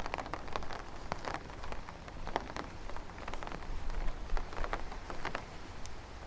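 Raindrops ticking irregularly and close by over a steady rain hiss, with a low wind rumble on the microphone.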